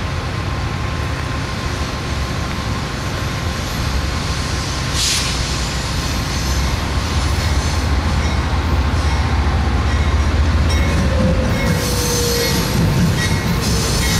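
Diesel locomotives of an approaching freight train running with a steady low throb that grows louder. There is a short hiss about five seconds in. From about ten seconds in, wheel flanges squeal on the curve, with gliding squeal tones.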